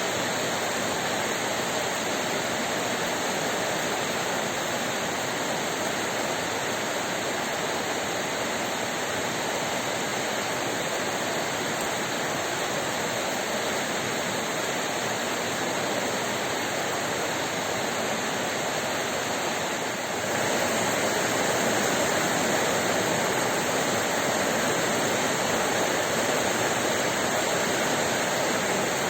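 Heavy rain pouring down: a steady, dense hiss of water that gets slightly louder about twenty seconds in.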